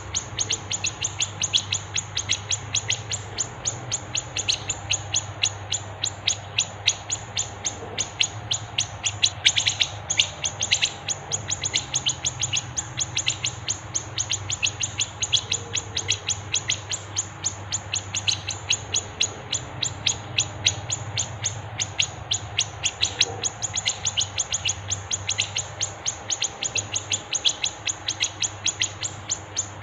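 Small songbirds chirping in a rapid, unbroken run of short high notes, several a second, over a faint steady low hum.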